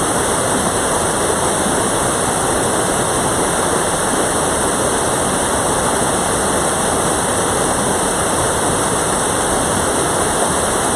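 Mountain stream water rushing over rocks, a steady loud, unbroken roar of flowing water.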